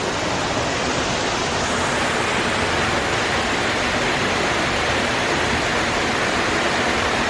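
Steady rush of falling water, an even roar that holds at the same level throughout.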